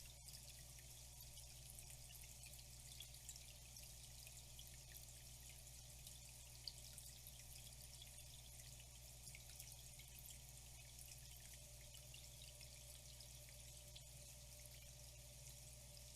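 Faint flowing water, a steady trickle with many small drips and splashes, over a steady low hum.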